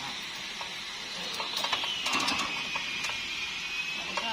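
Clusters of quick metallic clicks and knocks from a manual hoist's ratchet mechanism, over a thin, steady high whine that slides down in pitch partway through and slowly rises again.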